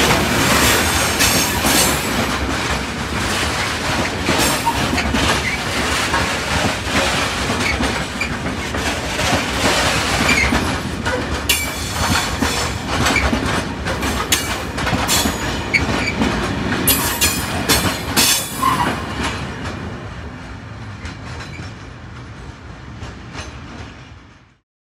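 Freight train passing, its wagon wheels clattering over the rail joints with sharp clicks and some wheel squeal. The sound fades as it draws away over the last few seconds, then cuts off abruptly.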